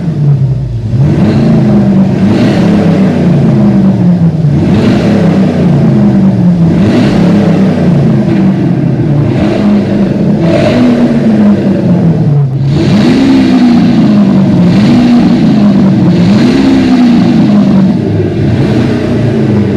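Ford Mustang's exhaust with an electronic exhaust sound system, revved again and again: the note climbs and drops back about every two seconds.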